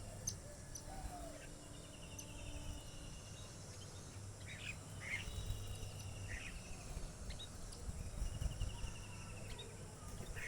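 Birds calling in the open: short trilled notes repeated every few seconds and a few brief chirps near the middle, over a steady high insect hum.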